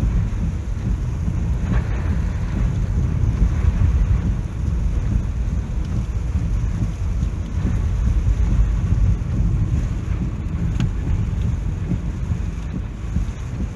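Typhoon wind and rain, heard as a loud, steady low rumble.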